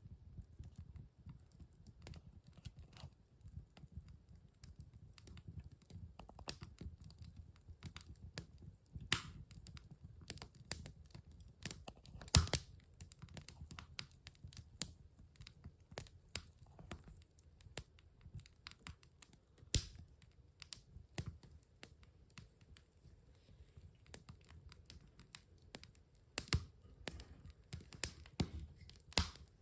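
Wood fire crackling in a fireplace: irregular sharp pops and snaps, the loudest about 12 seconds in, over a soft low rumble of the flames.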